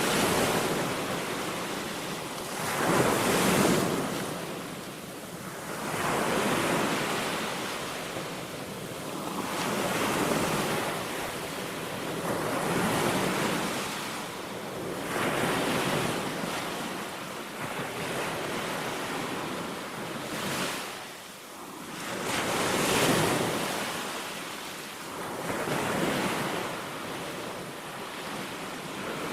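Small waves breaking and washing onto a Baltic Sea beach, a surge of surf every two to three seconds, with some wind on the microphone.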